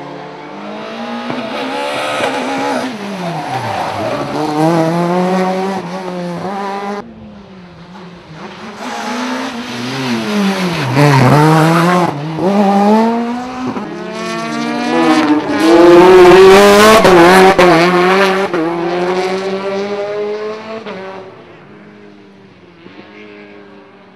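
Rally cars passing one after another, each engine revving up and dropping back through gear changes, with tyre squeal as they slide through the corners. The first pass cuts off suddenly about seven seconds in. The loudest pass comes around the two-thirds mark and fades away near the end.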